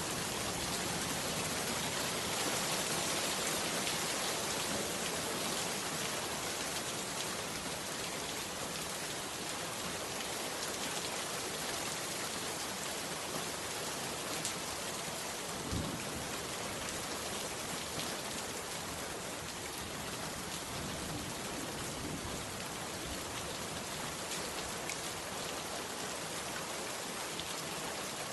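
Heavy rain pouring steadily on a bamboo hut, a dense even patter. One dull low thump about halfway through.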